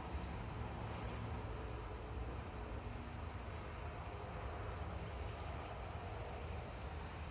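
A small bird giving a few short, high chip notes, spaced irregularly and loudest about halfway through, over a steady low background rumble.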